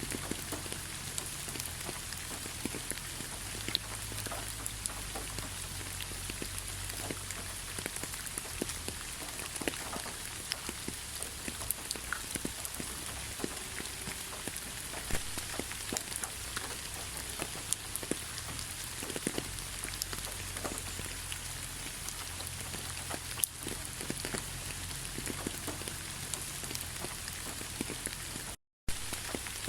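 Steady rainfall, with many separate raindrops ticking close by over an even hiss. It cuts out for a split second near the end.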